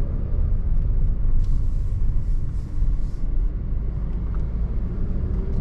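Steady car cabin rumble of road and engine noise while driving, heard from inside the car.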